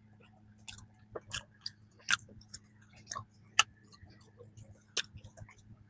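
Close-up chewing of a flaky pastry, with soft mouth sounds and a handful of sharp, crisp crackles spread through the chewing.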